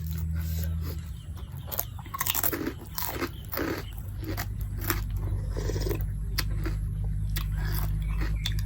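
A person biting and chewing crunchy food close to the microphone, in a run of irregular sharp crunches, with a low steady hum underneath.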